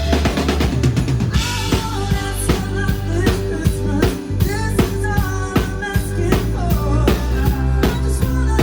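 A live band playing through loudspeakers: a drum kit keeps a steady beat over heavy bass and pitched instruments.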